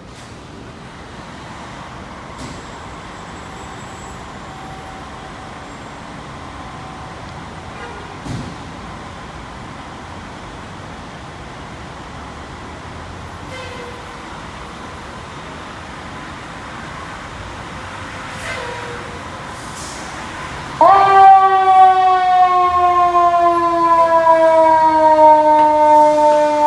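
Steady vehicle and street rumble, then near the end a fire engine's siren suddenly winds up to a loud wail and slowly falls in pitch.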